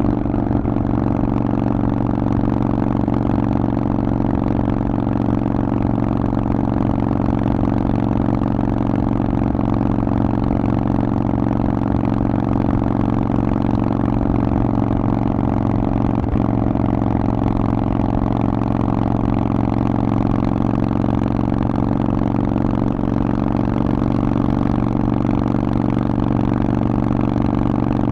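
Harley-Davidson Forty-Eight's air-cooled 1200 cc V-twin running through a Vance & Hines aftermarket exhaust, held at one steady engine speed with no revving.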